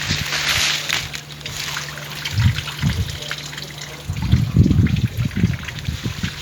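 Water trickling and splashing, with bursts of low rumble about two and a half seconds in and again from about four to five and a half seconds in.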